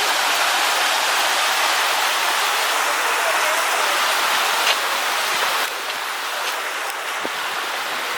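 Stream water rushing steadily, easing slightly about two-thirds of the way in.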